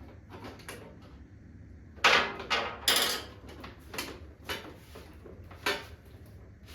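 A handful of sharp knocks and clicks from tools and parts being handled during work on a motorcycle, loudest in a quick cluster a couple of seconds in and then spaced out, over a steady low hum.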